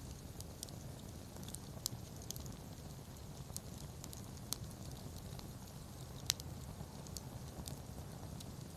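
Wood campfire crackling: scattered sharp pops and snaps, the loudest one about six seconds in, over a low steady rumble.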